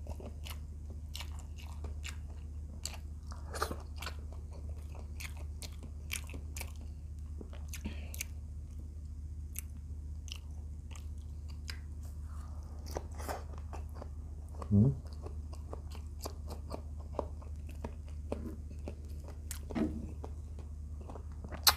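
Close-miked chewing of a man eating rice and vegetables by hand: many small wet mouth clicks and smacks as he bites and chews. A couple of louder short mouth sounds come about two-thirds of the way through and near the end, over a steady low hum.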